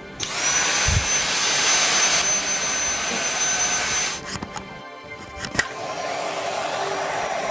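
Dyson V7 Trigger cordless handheld vacuum's digital motor starting with a quick rising whine, then running with a high steady whine over a rush of air. It cuts off about four seconds in, and starts again about five and a half seconds in, running more quietly.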